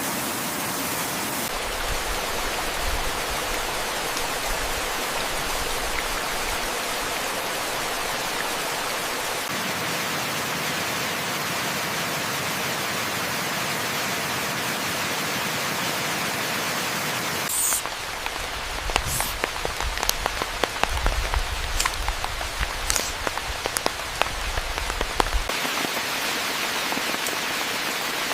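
Steady rain falling as an even hiss; a little past halfway it switches abruptly to a closer patter of separate drops striking a surface.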